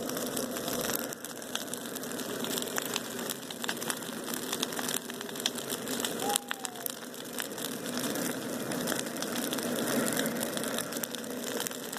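Bonfire burning, a steady rush of flame with frequent sharp crackles and pops. About six seconds in there is a brief falling whistle.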